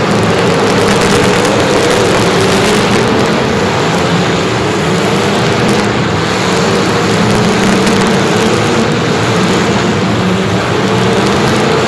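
An engine running steadily and loudly, its pitch wavering slightly up and down, over a constant rushing noise.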